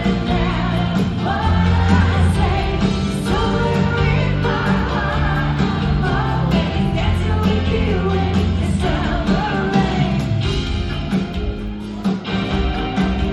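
Pop-rock band playing live in a concert hall, with a lead vocal singing over it.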